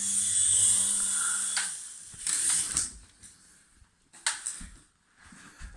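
Small electric motor and rotor of a toy remote-control helicopter whirring steadily, then stopping about a second and a half in, followed by a few sharp clicks and knocks.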